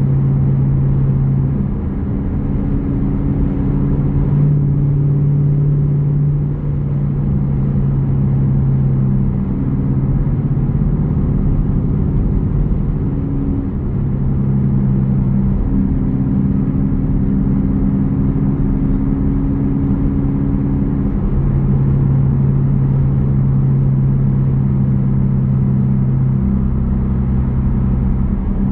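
Jeep Grand Cherokee's 5.7 Hemi V8 exhaust rumbling as the vehicle is driven, the engine note holding steady and shifting up and down in pitch a few times with speed.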